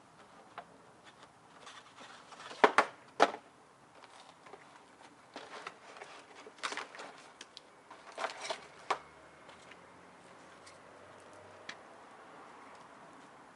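A scattered series of sharp knocks and clicks, the loudest three coming close together about three seconds in, with more around the middle, then only a faint steady background.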